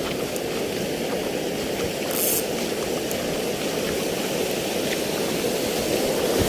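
Steady rushing noise of sea waves, slowly swelling, with a short high hiss about two seconds in.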